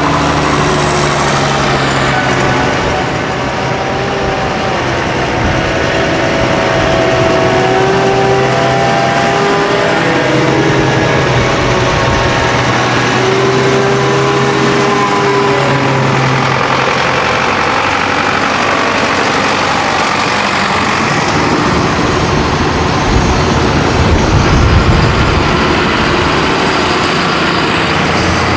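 A procession of farm tractors driving past, several diesel engines running at once with their pitches shifting as they go by. One passes louder and closer near the end.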